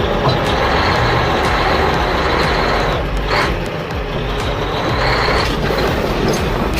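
A heavy vehicle's engine running steadily, like a truck's, with a brief hissing rise about three seconds in.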